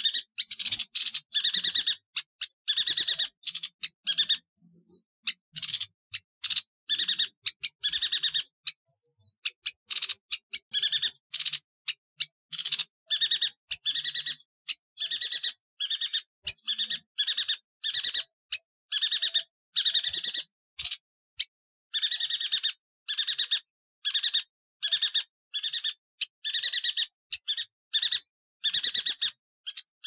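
Yuhina calling over and over: short, sharp, buzzy trilled notes repeated in quick succession, with a sparser, softer stretch a few seconds in.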